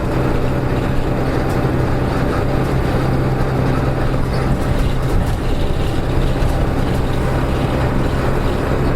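Diesel engine of a Nissan Diesel KK-RM252GSN city bus running steadily, heard from inside the cabin, with a strong steady low hum. This bus's engine note had turned abnormal.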